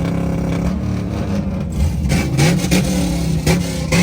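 Straight-piped Pontiac G8 GT V8 exhaust, running steadily at first and then revved in several sharp blips over the second half.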